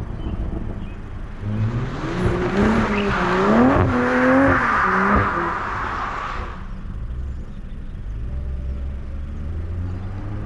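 Toyota Supra's B58 turbocharged inline-six revving under hard driving, its pitch climbing and dropping several times with a loud rushing hiss over it. After about six seconds it settles to a lower, quieter steady drone.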